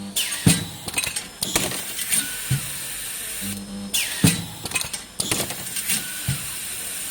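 Automatic welding machine working through a repeating cycle: bursts of mechanical clicks and clanks, broken about every three and a half seconds by a short pause with a low hum.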